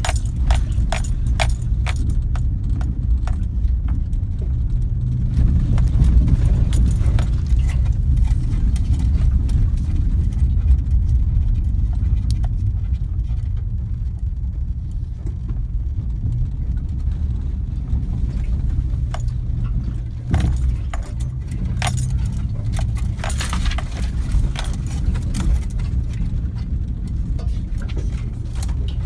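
Garbage truck's diesel engine running steadily with a low rumble, with repeated metallic clinks and rattles over it.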